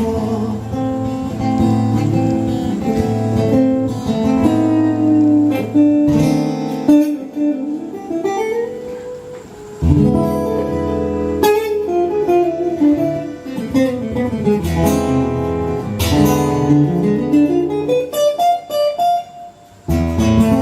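Acoustic guitar playing an instrumental passage of a song over a low bass line: strummed chords with runs of single notes climbing in pitch twice.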